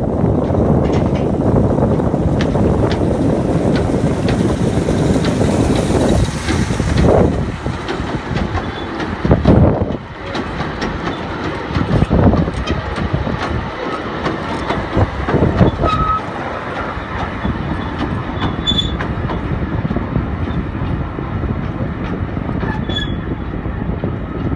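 Hythe pier train running along the pier: a steady rumble with wheels clacking over the rail joints, several heavier knocks, and a few brief high squeals in the second half.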